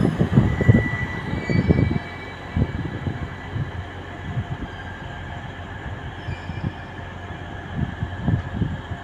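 Great Northern electric multiple-unit train running close past on the platform road. It is loudest in the first two seconds, with a brief faint wheel squeal, then dies down to a lower steady running noise.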